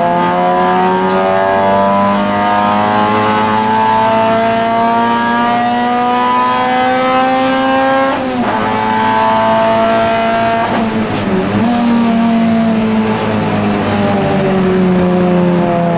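Honda Civic Type R FN2 race car's 2.0-litre i-VTEC four-cylinder engine, heard from inside the cabin, pulling up steadily through the revs for about eight seconds, then dropping sharply in pitch at a gear change. Another quick shift follows about three seconds later, and the revs ease down slowly near the end.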